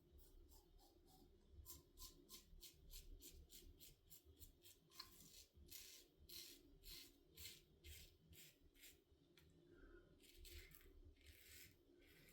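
Faint, short scraping strokes, about two a second, of a Blackland Vector stainless safety razor with a Feather Pro Guard blade cutting one day of lathered stubble on the first pass with the grain.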